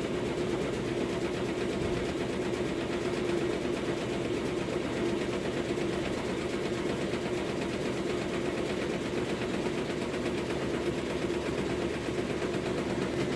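Maytag MVWC465HW top-load washer on its spin cycle, a steady hum with a fast buzzing rattle. The rattle comes from the drain tube at the back vibrating against the machine because it has not been tied down.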